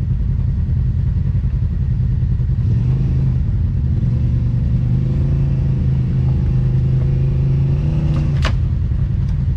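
Side-by-side UTV engine running steadily, with a second, higher engine note joining from about three seconds in until near the end. A single sharp click comes near the end.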